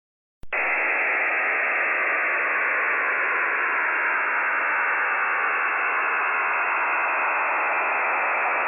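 Radio static: a steady, even hiss that switches on with a click about half a second in, like a broadcast signal being cut into.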